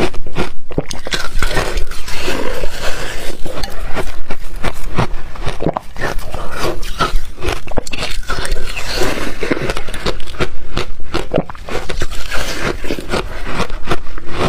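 Ice being bitten and crunched with the teeth in rapid, irregular crunches.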